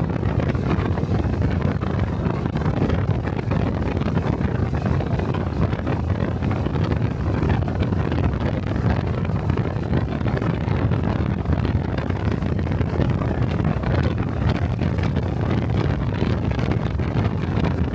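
A Honda 125 cc single-cylinder Cub motorcycle running at riding speed, its engine and exhaust mixed with steady wind buffeting on the microphone.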